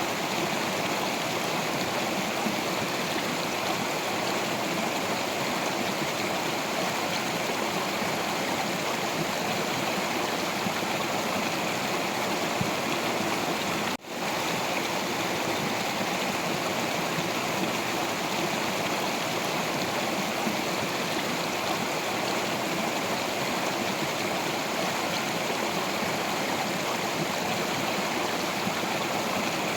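Stream water flowing and splashing over rocks in a steady, even rush. The sound drops out for a split second about halfway through.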